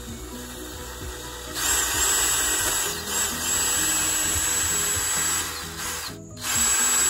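DeWalt cordless drill boring a hole into the wall. The motor winds up with a rising whine about a second and a half in, runs steadily with a brief slackening partway, stops, then runs again briefly near the end. Background music plays underneath.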